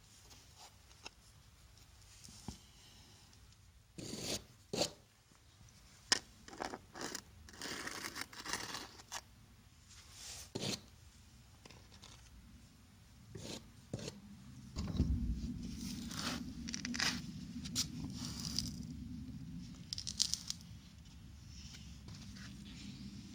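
Irregular scrapes and sharp knocks, with a low steady hum coming in about two-thirds of the way through.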